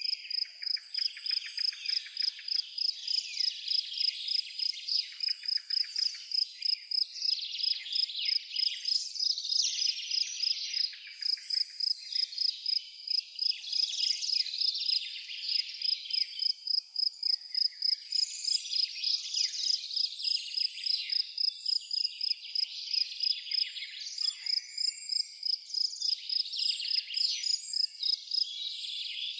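A cricket chirping steadily at about three chirps a second, with songbirds calling and twittering over it.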